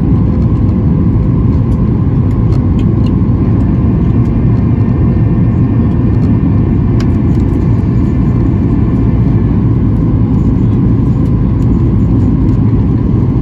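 Airliner's jet engines at takeoff power, heard inside the passenger cabin: a loud, steady, deep rumble with a faint whine running through it.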